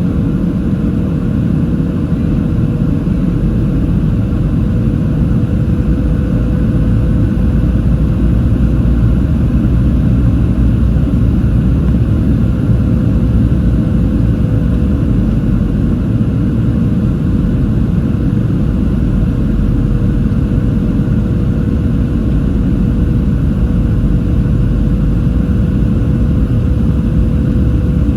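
Steady cabin roar of a Boeing 737-700 in flight: CFM56-7B turbofans and airflow, heavy in the low end, with a thin steady hum in the middle.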